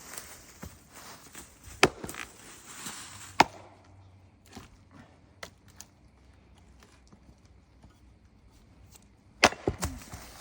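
A small CRKT axe chopping into wood: two single blows in the first few seconds, a pause with faint knocks, then three blows in quick succession near the end.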